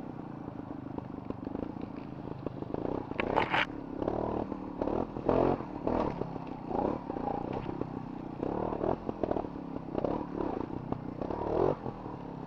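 Trials motorcycle engine running low with a series of short bursts of throttle as the bike is ridden slowly over uneven woodland ground, with light clatter of the bike in between.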